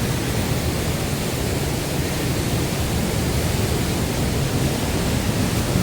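Waterfall rushing in heavy flow, swollen by rain that has just ended: a steady, even rush of water.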